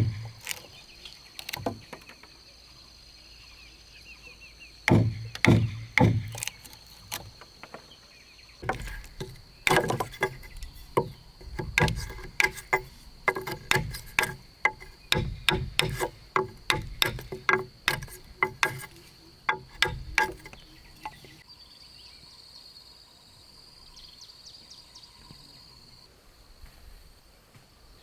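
Hand tools striking wood in a long run of sharp knocks, some of them ringing, thickest through the middle and easing off for the last few seconds. A steady high insect drone runs underneath.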